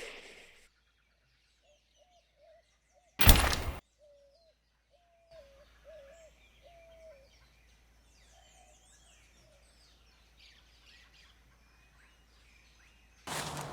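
A short, loud noisy hit about three seconds in, then soft bird chirps and short warbling calls. A loud rushing noise begins right at the end.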